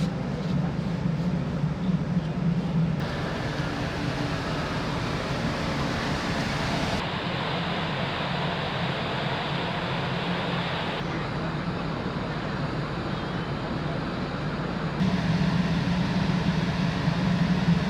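Steady low hum and rushing noise of a large car ferry under way, its engines running. The sound changes abruptly in character about every four seconds.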